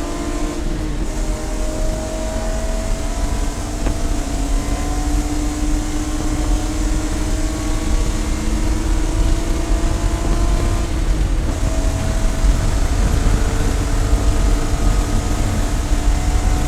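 Race car engine running at sustained speed on track, its note holding fairly steady and drifting slowly, with a change in note about eleven seconds in, over a heavy low rumble.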